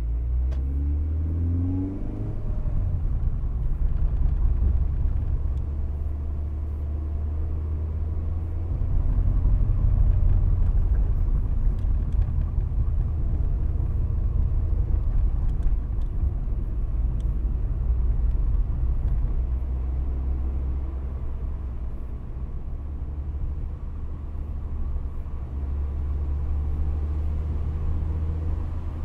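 Mazda MX-5's four-cylinder engine pulling the car along, a steady low rumble with wind and road noise, heard from inside the open-top cabin. About a second in, the engine note rises as the car accelerates.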